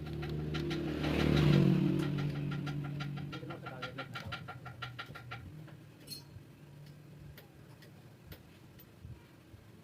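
An engine running steadily, growing louder to a peak about a second and a half in, then fading away over the next few seconds.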